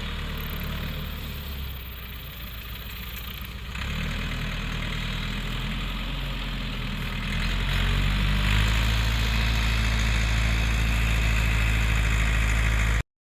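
An engine running at a steady idle, getting louder about seven and a half seconds in, then cutting off suddenly near the end.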